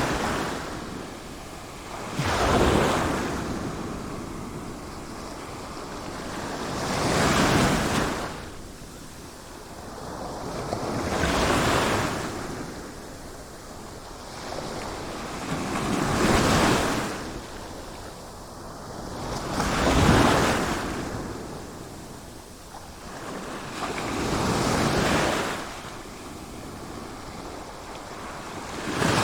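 Sea waves breaking and washing in, one after another. Each swells to a rushing peak and fades, about every four to five seconds.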